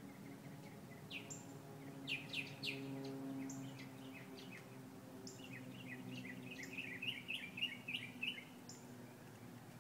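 Birds chirping: scattered short, quick down-sweeping calls in the first few seconds, then a rapid run of chirps a little past the middle, over a steady low hum.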